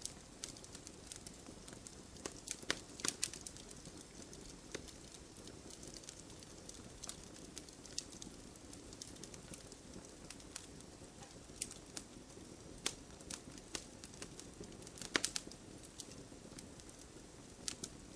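Wood fire in a fireplace crackling, with a steady low hiss of the flames and scattered sharp pops and snaps, a few louder ones about three seconds in and near the middle and later.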